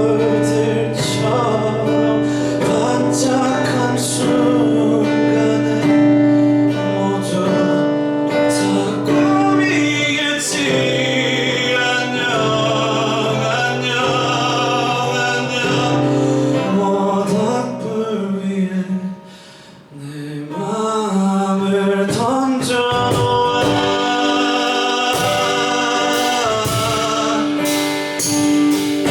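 Live acoustic performance: guitar with hand percussion and a male voice singing. The music thins and drops briefly about two-thirds of the way through, then comes back in full.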